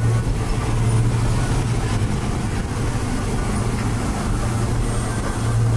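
Steady low hum and rumble from the Disneyland Railroad's steam train.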